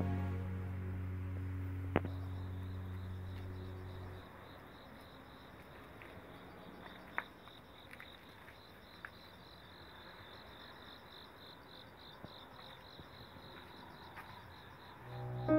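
Soft background music fading out over the first few seconds, then an insect chirping steadily in a high, quickly pulsing trill, with a few faint clicks.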